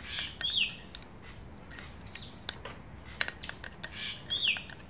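A bird calling twice, each a short chirp sliding downward in pitch, with scattered light clicks of a metal spoon against the bowl as thick paste is stirred.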